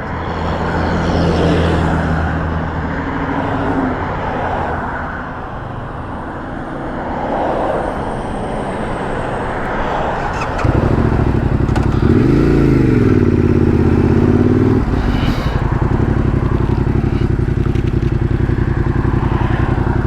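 Other vehicles idling, then about halfway through a Yamaha Ténéré 700's parallel-twin engine starts, is blipped up and back down once, and settles into a steady idle.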